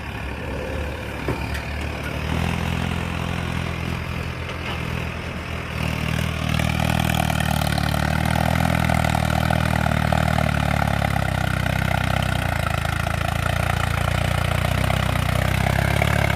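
Mahindra Arjun tractor's diesel engine running steadily, getting louder about six and a half seconds in.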